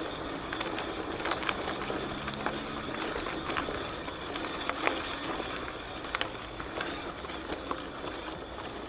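Ride noise from a bicycle: a steady rushing with irregular small clicks and knocks as it rolls over the path.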